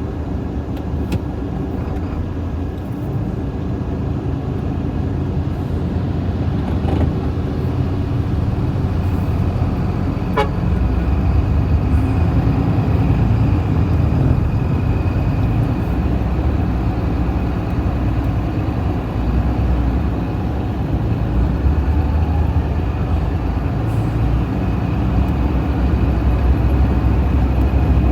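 Heavy diesel engines of a wheel loader and a dump truck running, loud and low, growing louder from about twelve seconds in as the loader works harder.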